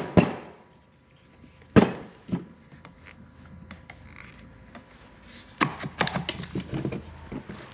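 Sharp knocks, then a run of quick clicks and rattles, as the parts of the table saw's small electric motor are handled and pulled apart once its ground screw is out.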